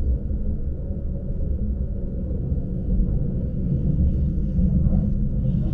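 Steady low rumble of a Lastochka electric train running along the line, heard from inside the passenger carriage.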